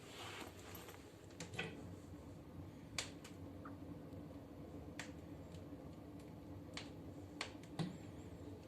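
Wood fire crackling in a fireplace stove as it is being lit: sparse, irregular sharp cracks and pops over a faint low hum.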